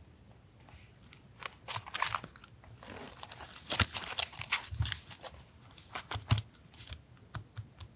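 Paper and washi tape being handled on a desk: crackly rustling and crinkling in three or four bursts, with sharp little clicks and a couple of soft thumps in the middle.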